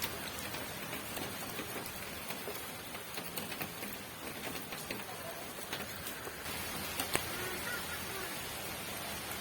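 Steady rain falling, an even hiss with scattered individual drops ticking on a surface. One sharper drop hit stands out about seven seconds in.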